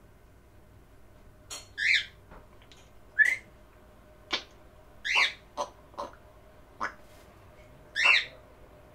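Pet parrots giving a string of short calls, about eight brief sharp notes with wavering pitch, a second or so apart.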